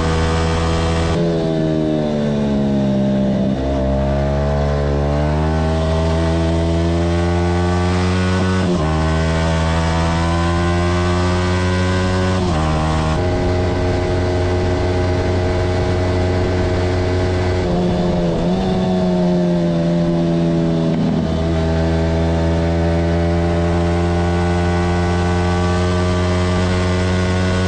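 Yamaha R15 sport motorcycle's single-cylinder engine, heard on board at high revs. The pitch falls away about a second in, then climbs again, with short breaks for gear changes several times and further dips partway through.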